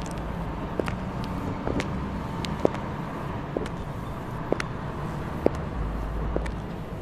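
High-heeled shoes clicking on a city pavement at a steady walking pace, about one step a second, over a low hum of road traffic.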